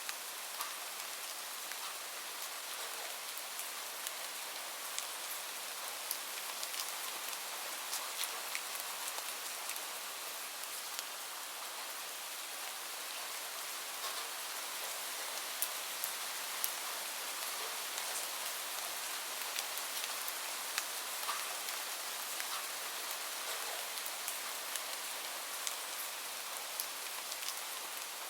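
Steady rain: an even hiss with scattered sharp ticks of single drops striking a surface.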